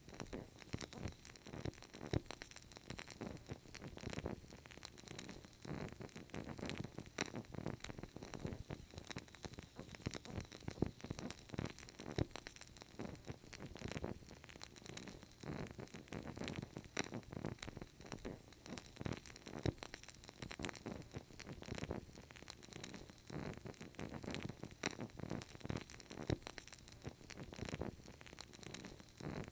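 Burning candle crackling: a continuous, irregular stream of small pops and crackles with no pauses.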